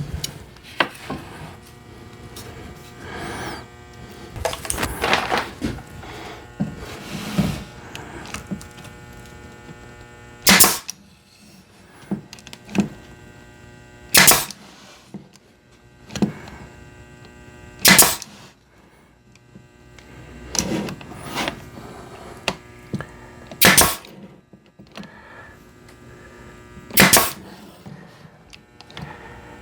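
Nail gun firing single shots into cedar boards, five sharp cracks a few seconds apart, with wood being shifted and handled between them and during the first several seconds. A steady electrical hum runs underneath.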